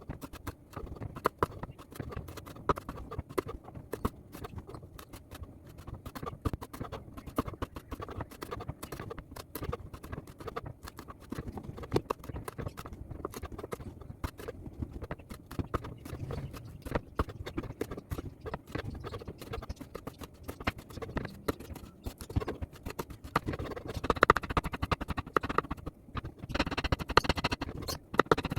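Kitchen utensils and cookware knocking and scraping during cooking, with many small irregular knocks throughout, growing louder and brighter near the end.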